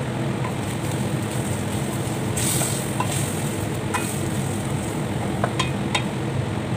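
Pork and chicken pieces with chopped onion and garlic frying in a stainless steel pot, stirred with a wooden spatula that gives scattered light knocks and scrapes against the pot, over a steady low hum.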